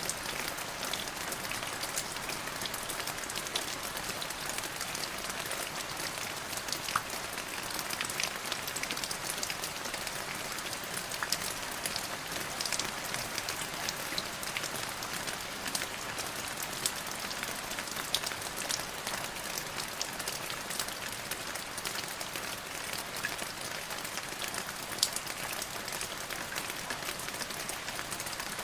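Steady rain falling, an even hiss full of small drop ticks.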